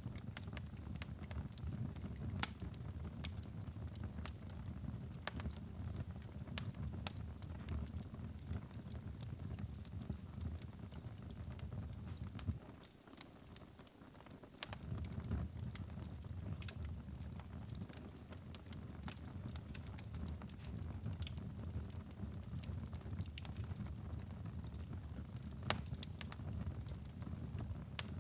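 Fire crackling in a fireplace: a low, steady rumble of flames with frequent sharp pops and snaps. About halfway through, the rumble drops away for roughly two seconds while a few pops carry on.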